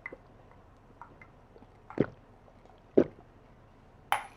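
Close-miked wet chewing and mouth sounds from eating a rice-paper roll of boiled pork and herbs: a few separate squelches about a second apart. Near the end a glass clinks.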